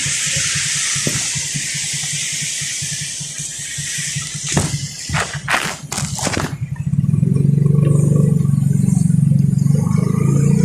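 A vehicle engine running with a loud, pulsing low hum that comes in about seven seconds in. Before it there is a steady hiss like rain or wet-road spray, then a few sharp knocks.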